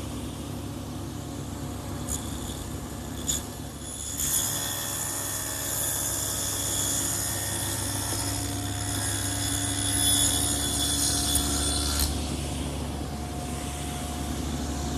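Table saw with an adjustable dado head running steadily. About four seconds in, the dado head starts cutting a dado across a wooden frame piece and adds a harsher, louder cutting noise for about eight seconds. After that the saw spins free again.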